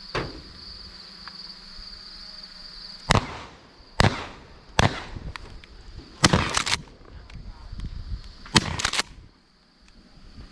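A rapid string of shotgun shots, about seven in six seconds, the later ones coming in quick pairs. Insects chirr steadily in the background until the first shot.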